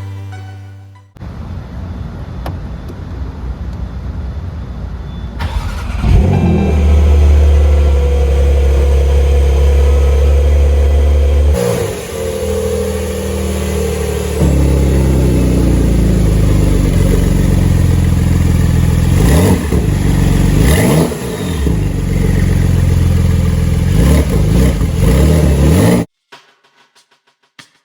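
Porsche 911 Carrera S twin-turbo flat-six engine running under load. It gets louder about six seconds in, shifts pitch a few times with brief rises and falls, and cuts off suddenly near the end.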